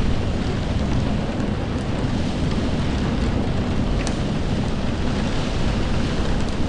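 Steady rain with a deep low rumble under it, and a few sharp drip clicks now and then.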